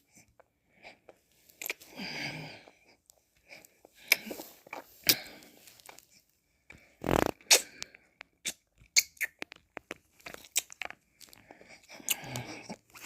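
Close-miked mouth sounds of eating ice cream: licking and slurping, with wet lip smacks and tongue clicks scattered throughout, and one louder, fuller mouth sound about seven seconds in.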